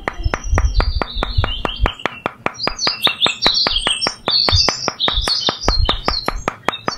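Small hammer tapping miniature wooden posts down into sand, heard as soft low thumps in two clusters. Birds chirp throughout, and a fast, even clicking runs underneath.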